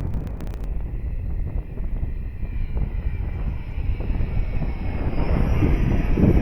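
Electric ducted-fan whine of a Freewing T-45 Goshawk V2 RC model jet in flight, over a heavy low rumble. The high whine rises and grows louder in the last second or so as the jet comes closer.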